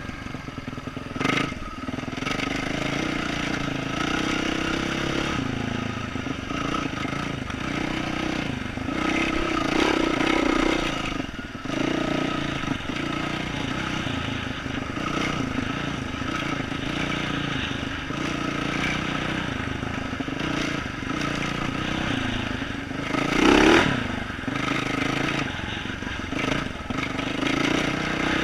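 A 2012 Yamaha YZ450F dirt bike's single-cylinder four-stroke engine, fitted with an aftermarket exhaust, running through the gears on a trail. Its note rises and falls with the throttle. Short clattering knocks come from the bike, the loudest about 23 seconds in.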